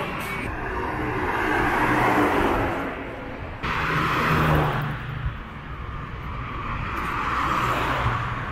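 Road traffic going by: cars passing one after another, each swelling and fading. The loudest pass, with a low engine hum, comes in suddenly about three and a half seconds in.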